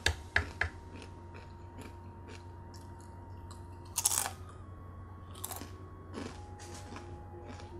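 Crispy fried chicken skin being crunched and chewed close to the microphone: a few sharp crunches just after the start, a loud crunch about four seconds in, then a couple of softer ones.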